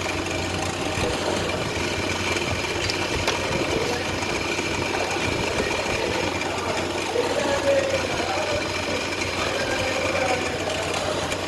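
Electric motor of a woodworking machine running steadily, with a constant high whine over a dense mechanical noise.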